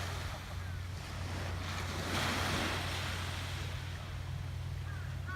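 Surf washing onto the beach in a typhoon-driven swell, with a louder wave surge about two seconds in, over a steady low rumble of wind on the microphone.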